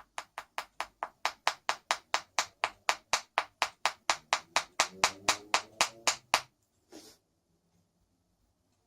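Rapid, even taps on wood, about four a second for some six seconds, then one last tap a little later: a small glued dowel plug being tapped into a turned wooden pipe.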